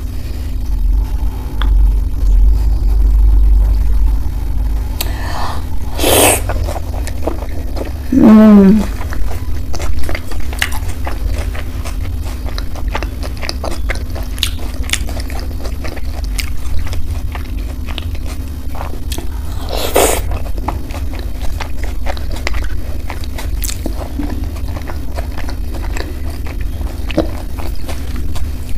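Close-miked eating of soft, creamy malai chaap: wet chewing and biting with many small mouth clicks, over a steady low hum. Two louder knocks come about six and twenty seconds in, and a brief hummed voice sound about eight seconds in.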